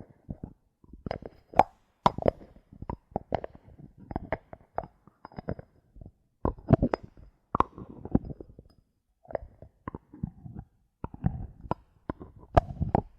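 Bottle caps tapped and handled close to the microphone: irregular clicks, taps and short scraping rattles.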